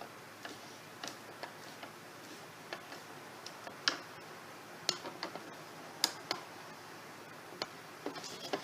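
Scattered light clicks and taps, irregularly spaced with a small flurry near the end, from hand tools and small screws while screws are fitted into a cup caster on a wooden table leg.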